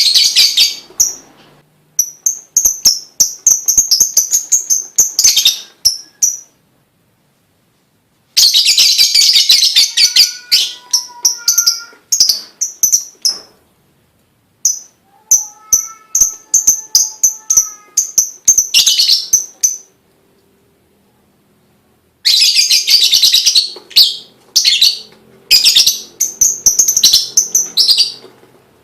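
A lovebird singing its long chattering song: five bouts of very rapid, high chirps, each a few seconds long, broken by short pauses.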